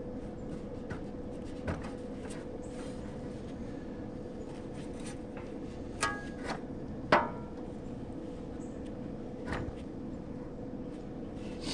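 A few sharp metallic knocks and clanks of parts and tools being handled on a heat pump condenser unit, about five in all, the loudest about seven seconds in with a brief ring, over a steady hum.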